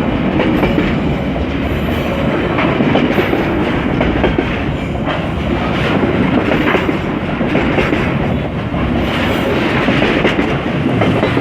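Container freight train wagons rolling past, wheels clacking steadily over the rail joints.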